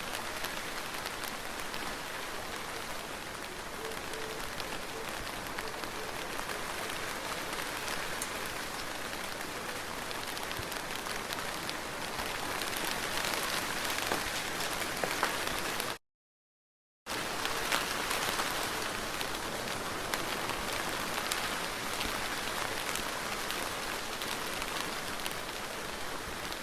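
Steady soft rain: an even hiss sprinkled with small drop ticks. The sound cuts out completely for about a second just past the middle, then resumes unchanged.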